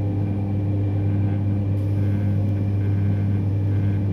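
Cabin noise inside a 200 series Shinkansen car gathering speed just after departure: a steady low hum with a fainter higher tone over rolling rumble.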